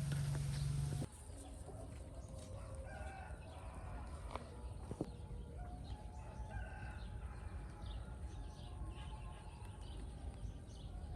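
Birds calling in short pitched calls over a quiet background. A steady low hum cuts off suddenly about a second in.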